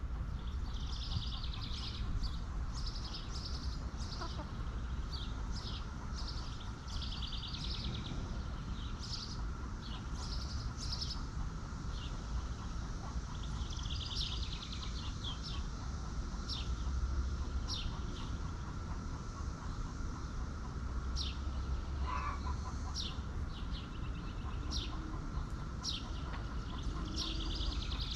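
Backyard chickens in a flock: many short, high chirps and peeps, with one longer falling call about three-quarters of the way through, over a steady low rumble.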